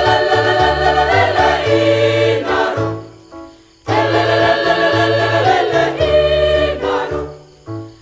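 Choir singing in parts, two held phrases with a short break about three seconds in, over sustained low bass notes.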